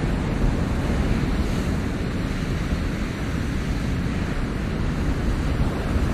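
Ocean waves washing on a shore in a steady rush, rising and falling slowly, with a heavy low rumble that may include wind on the microphone.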